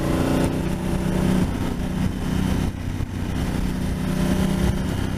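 Honda Africa Twin motorcycle engine running at a steady cruise, with wind and road noise from riding.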